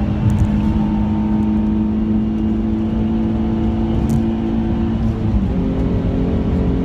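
Nissan 350Z's 3.5-litre V6 engine pulling hard under load, heard from inside the cabin over tyre and road noise. About five seconds in, the engine note drops to a lower steady pitch as the driver shifts up a gear.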